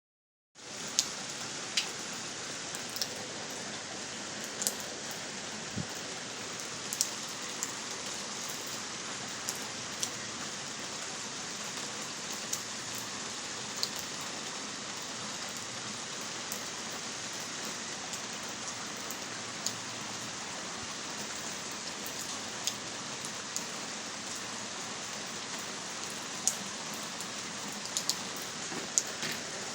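Heavy rain pouring down steadily, with scattered sharp ticks of single drops landing close by.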